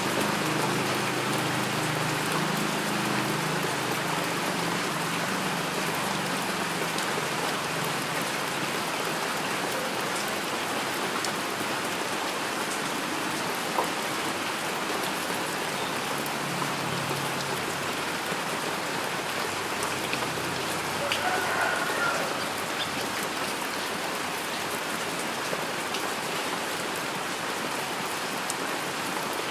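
Steady rain falling, a dense even hiss of drops with a few sharper drip ticks here and there.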